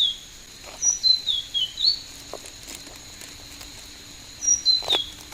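A songbird singing short, high whistled phrases of falling notes, three times: at the start, about a second in, and near the end. A couple of light knocks come between the phrases.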